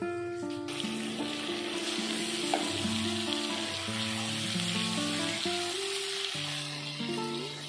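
Minced garlic and sliced shallots sizzling in hot oil in a wok, starting about a second in.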